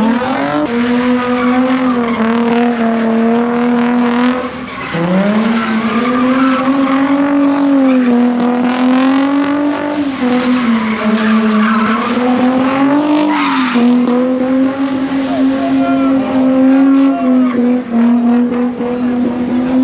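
A car engine revved up and held at high revs while the tyres spin and squeal in a sustained burnout. The revs dip briefly about five seconds in and then climb back, wavering a little up and down.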